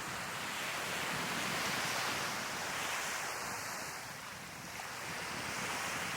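Sea waves breaking and washing onto the shore: a steady rush that swells about two seconds in, eases off, and builds again near the end.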